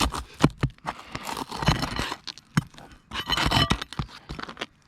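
Brittle roof shingles being pried up and worked by hand to get at the nails beneath, scraping and crackling in two longer stretches amid many sharp clicks and knocks.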